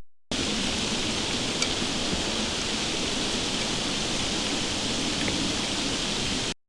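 Steady hiss of freezing rain falling, with a few faint ticks.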